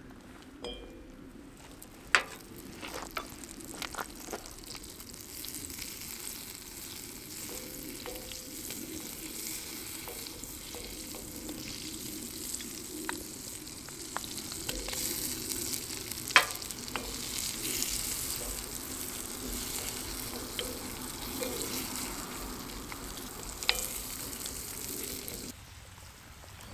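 Food frying in a hot pan: a steady sizzle with scattered sharp pops and clicks, cutting off suddenly near the end.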